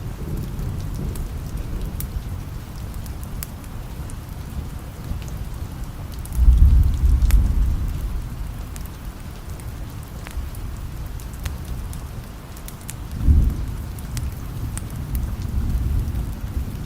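Steady rain with rolls of distant thunder: a low rumble about six seconds in that lasts a couple of seconds and fades, and a shorter one a little past halfway.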